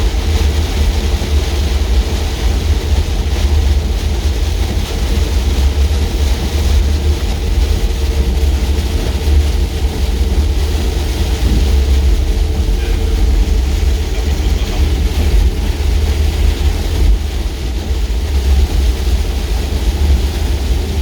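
Steady low road rumble and running noise of a vehicle driving across a long bridge, heard from inside the vehicle.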